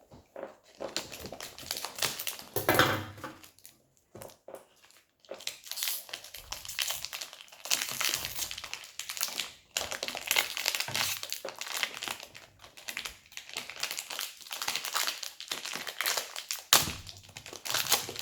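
Plastic toy packaging crinkling and rustling in irregular bursts as it is unwrapped by hand, with a short pause about four seconds in.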